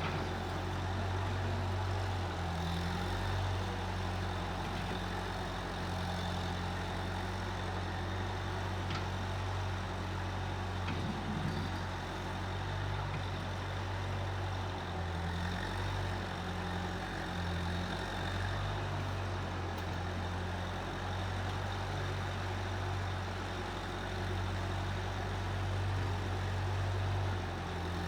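Engine of a Case 1530 Uni-Loader skid steer running steadily, a low, even hum that swells and eases slightly now and then.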